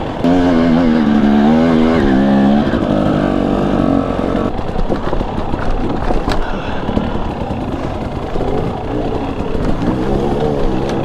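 Husqvarna TE250i fuel-injected two-stroke dirt bike engine revving, its pitch wavering up and down over the first few seconds. It then runs rougher and lower, with a sharp click about six seconds in, and revs up again near the end.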